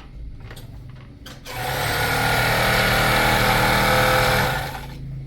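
A motor-driven machine runs steadily for about three seconds with a low hum and a wide hiss, starting about a second and a half in and winding down near the end.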